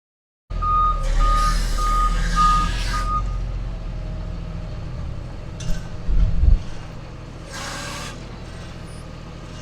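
A vehicle's reversing alarm beeps five times, about two beeps a second, over a running engine. Later come a few short hisses and some low thumps.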